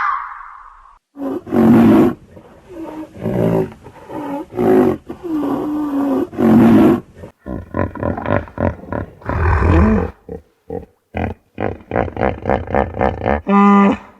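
Lion roaring: a bout of loud, drawn-out roars, then a quicker series of shorter grunting calls in the second half.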